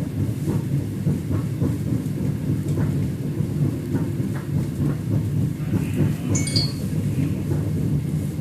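Steady low rumble inside a South Shore Line electric passenger car, with faint ticks and a brief high squeal about six seconds in.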